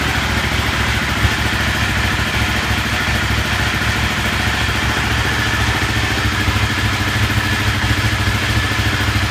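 Ducati 1199 Panigale's Superquadro V-twin engine idling steadily, with an even pulsing rumble and no revving.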